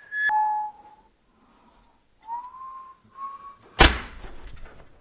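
A man whistling a few short notes to himself, with a faint click near the start. About four seconds in there is a single loud, sharp bang.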